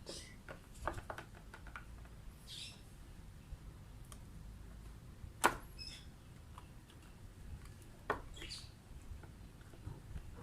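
Faint scattered clicks and soft rustling over a low background hum, with one sharper click about five and a half seconds in.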